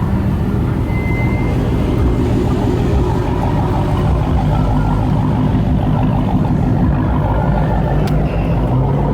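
Car engine running steadily, a loud continuous low rumble with no revving or breaks.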